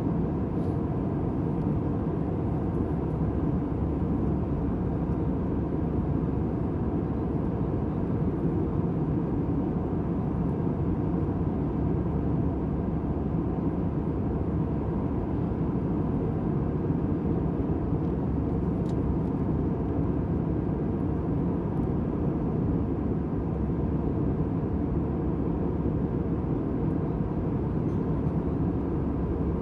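Airliner cabin noise: a steady, monotonous low rumble and hiss with a faint even hum, unchanging throughout.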